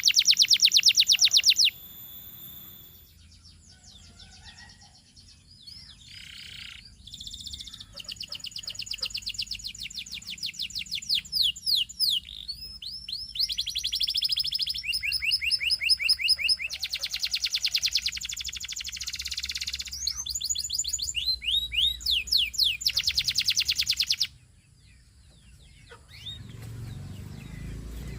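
Canary singing: long trills of rapidly repeated high notes, some falling sweeps and some fast steady rolls, in phrases broken by short pauses. Near the end the song stops and a lower sound begins.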